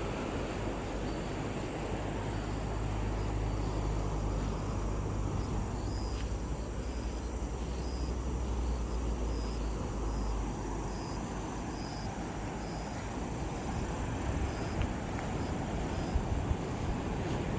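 Surf and wind rushing steadily, with a low engine drone for the first ten seconds or so, then fading out. Faint high chirps repeat at an even pace over it.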